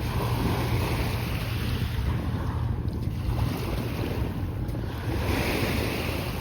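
Sea waves washing onto the beach, swelling about half a second in and again about five seconds in, with wind rumbling on the microphone.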